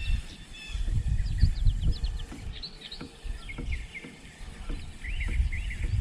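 Several small birds chirping and twittering in short, quick calls throughout, over an uneven low rumble of wind and handling noise on the microphone.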